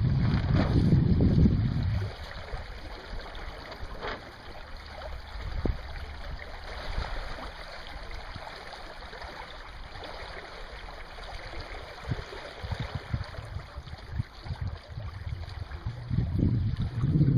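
Wind buffeting the microphone as a heavy low rumble for about the first two seconds and again near the end, with a steady rush of wind and water on the lake in between.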